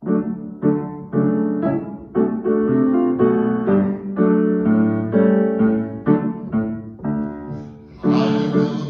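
Piano music: a steady run of struck notes, about two a second, starting right after a brief break in the sound, with a fuller accompaniment coming in near the end.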